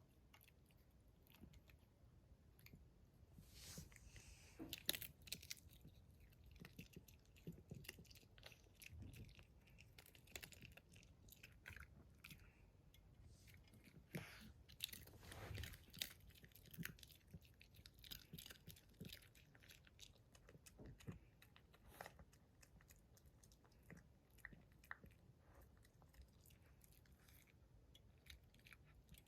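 Coton de Tulear dog eating its food: faint crunching and chewing, in irregular bites.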